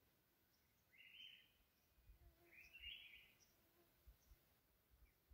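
Faint bird calls over a near-silent outdoor background: two short chirping phrases, about a second in and again around two and a half seconds in. A few faint low bumps follow in the second half.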